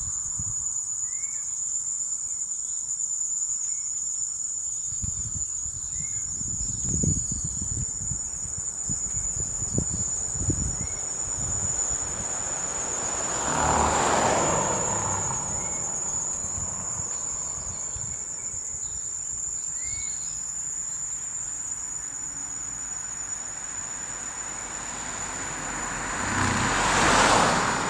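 Steady, high-pitched insect chorus of crickets or cicadas buzzing without a break. A vehicle passes about halfway through and another near the end, each a swell of road noise that rises and fades over a couple of seconds, and a few low thumps come in the first third.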